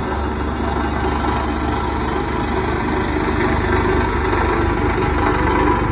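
Road roller's engine running steadily while it compacts gravel.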